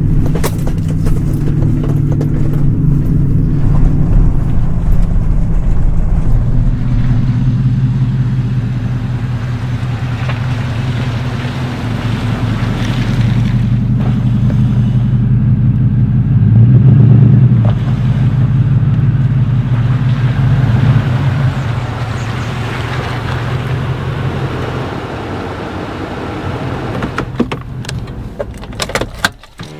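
Pickup truck engine running steadily while driving, with road noise over it and a few sharp clicks near the end.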